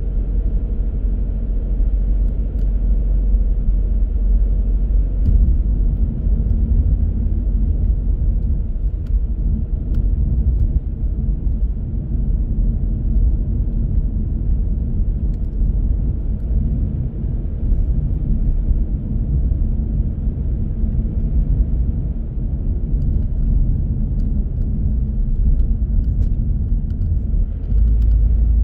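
Car driving along a road at a steady pace: a continuous low rumble of road and engine noise with tyre hiss. The rumble grows a little louder near the end.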